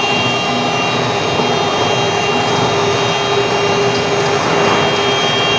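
Xingyi 820RC remote-controlled concrete floor grinder running steadily, a dense even machine noise with a steady mid hum and a high whine.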